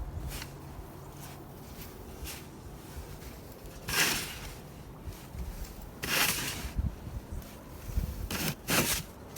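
Snow shovel scraping and pushing through deep, heavy snow in short strokes: a few faint ones at first, then three strong half-second scrapes spaced about two seconds apart.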